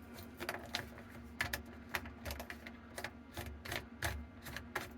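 Irregular light clicks and taps of a plastic sink drain trap being handled, its plastic slip nuts hand-threaded onto the pipe.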